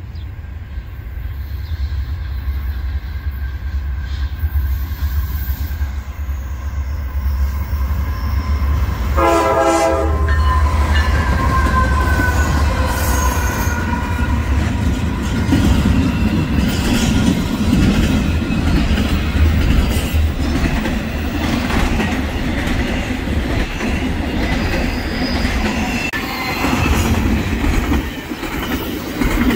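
Norfolk Southern diesel freight locomotives approaching with a low rumble and sounding a short horn blast about a third of the way in. The engines then pass, and the double-stack intermodal well cars roll by with steady wheel and rail clatter.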